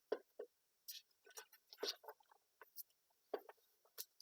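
Faint, scattered clicks and scratchy rustles of a picture book's paper pages being handled and turned.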